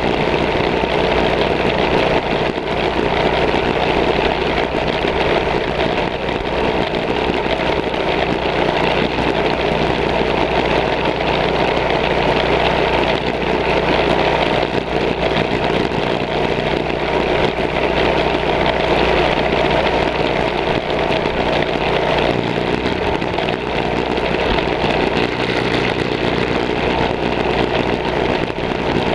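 Small mini bike engines running steadily under load during a race.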